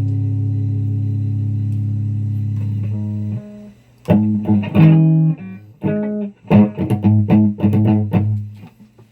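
Guitar playing: a low held note rings on for about three seconds and stops, then after a short pause comes a run of quick plucked notes.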